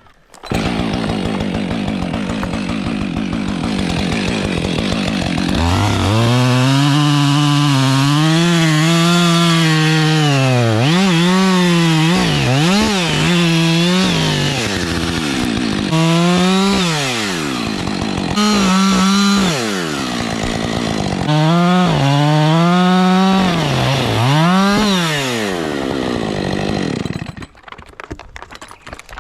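Chainsaw running, starting about half a second in and running lower for several seconds, then revved high again and again with its pitch dipping and recovering, until it cuts off near the end.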